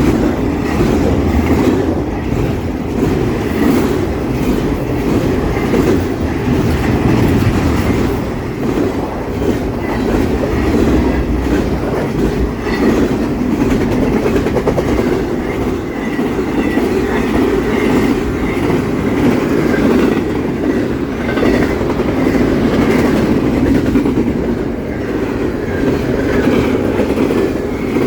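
Union Pacific intermodal freight train's cars rolling past, a loud steady rumble with the clickety-clack of wheels over the rail joints.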